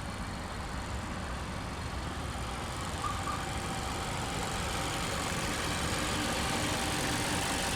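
A 2015 Mazda CX-5's 2.5-litre inline-four petrol engine idling steadily.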